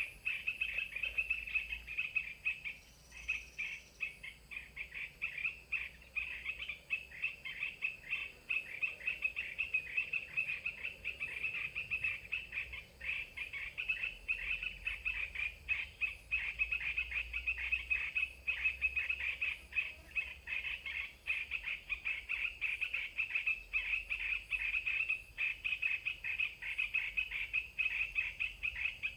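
Continuous rapid bird chattering: many short, high calls run together without a break.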